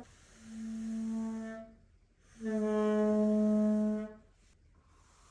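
Two long held notes of a horn-like wind instrument, each steady in pitch and over a second long, the second louder than the first.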